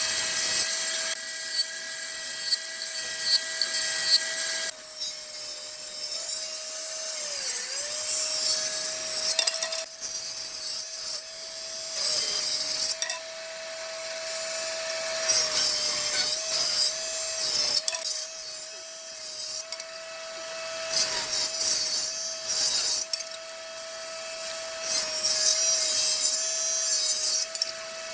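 Electric woodworking tool cutting wood: a steady motor hum that sags briefly in pitch about seven seconds in, as if under load, with rasping sawing noise coming and going in spells.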